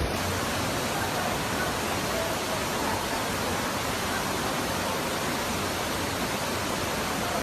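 A steady, even hiss of noise that cuts off suddenly at the end.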